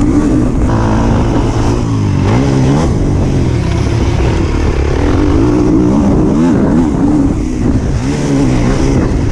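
Motors revving up and down unevenly, their pitch wavering and swinging several times.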